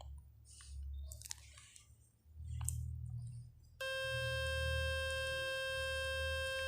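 Faint taps and handling rumble. About four seconds in, a phone speaker suddenly starts a steady buzzing tone with many overtones: the Fix My Speaker website's cleaning tone, played to shake dust and water out of the speaker.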